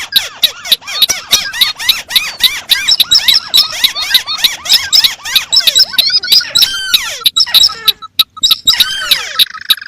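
Recorded crake calls, white-browed crake and other crakes layered together: dense, fast, squeaky chirps, several a second, overlapping out of step with one another, with a short break about eight seconds in.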